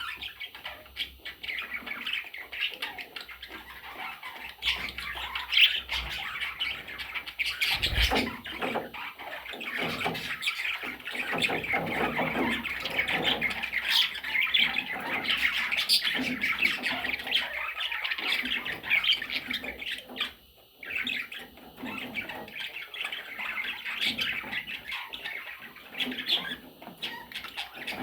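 Pet budgerigars chattering and squawking almost without a break, with a short pause about twenty seconds in.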